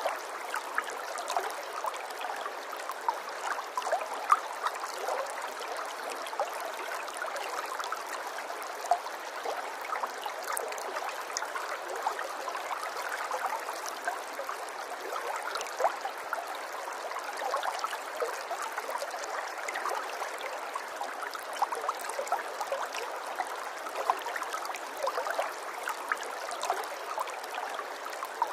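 Flowing water running steadily, with many small quick splashes and gurgles through it.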